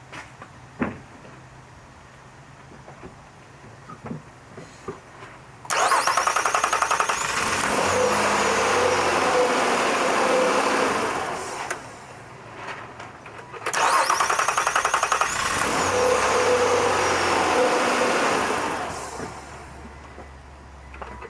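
Car engine started twice: each time the starter cranks with a rapid pulsing for about two seconds before the engine catches and runs, then the sound fades out. It is an extended crank, the hesitant start typical of a failing crankshaft position sensor.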